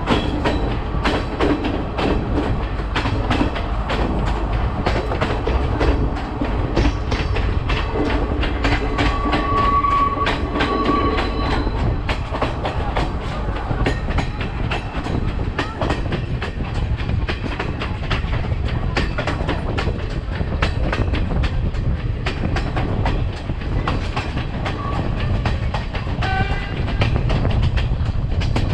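Class S12 diesel multiple unit running along the line, heard from an open carriage window: a steady rumble with the wheels clicking over the rail joints. A short steady tone comes through about ten seconds in.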